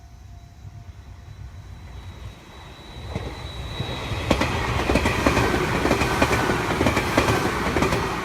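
Meitetsu electric train approaching and passing, its wheels clicking over the rail joints. It grows louder about three seconds in and is loudest over the last few seconds.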